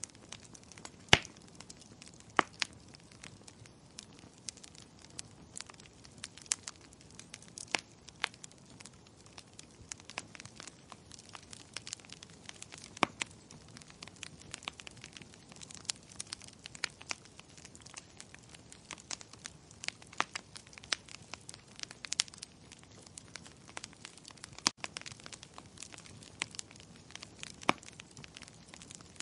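Wood fire crackling, with a constant low hiss and frequent irregular sharp pops and snaps, the loudest about a second in.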